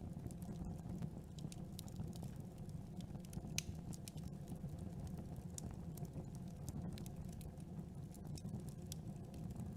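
Campfire burning: a steady low rush of flame with irregular sharp crackles and pops from the wood. One pop, about three and a half seconds in, is louder than the rest.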